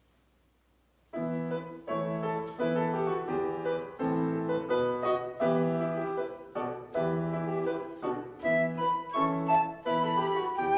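Near silence for about a second, then keyboard music starts: full chords sounded one after another, the closing music after the benediction of a church service.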